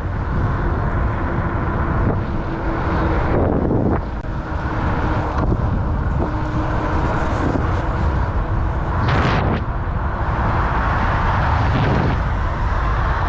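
Wind rushing over the microphone and road noise while riding a fat-tire electric bike, with a faint steady hum that comes and goes. A brief louder swell comes about nine seconds in.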